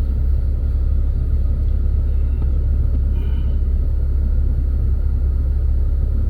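A steady low rumble, with a brief faint higher sound about three seconds in.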